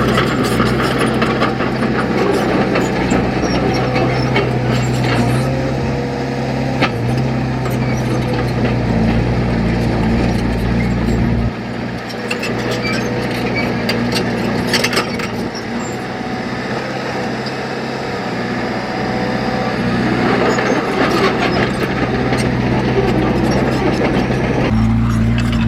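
Heavy earthmoving machine's diesel engine running, with metallic rattling and clanking. The deep engine note drops away about halfway through and the level comes back up near the end.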